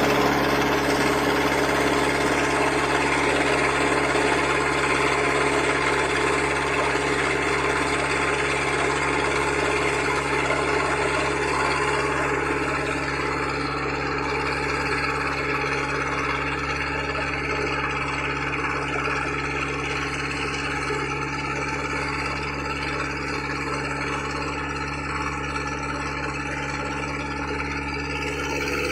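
Squid fishing boat's engine running steadily at low speed, an even hum that eases slightly about halfway through.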